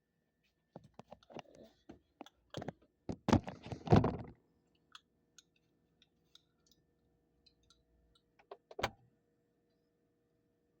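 Phone being handled and set inside a refrigerator: a run of clicks and knocks, the loudest about three to four seconds in. Then a faint steady hum, and one more knock near the end.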